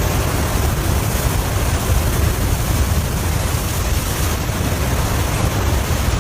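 River ice breaking up with meltwater rushing through it, a steady dense rush with a heavy low rumble.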